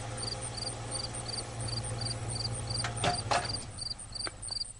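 An insect chirping steadily, short high chirps about three a second, over a low steady hum, with a couple of faint clicks about three seconds in.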